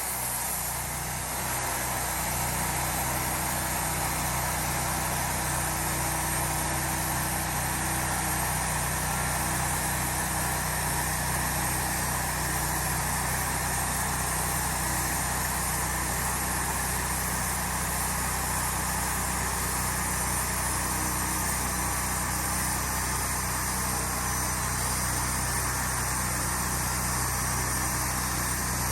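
An engine running steadily at a constant speed, with no changes in load or pitch.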